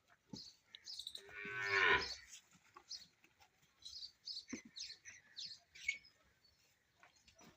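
A calf moos once, one call of about a second that falls in pitch, about a second in. Small birds chirp over it throughout.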